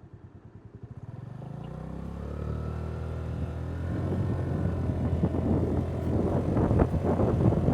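Honda Navi's small single-cylinder scooter engine pulling away, its note rising in pitch and growing steadily louder as the bike gathers speed. Wind buffeting on the microphone builds up in the second half.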